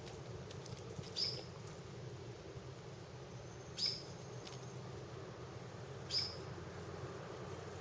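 Three short, high chirps about two and a half seconds apart, each dropping slightly in pitch, over a steady low background noise.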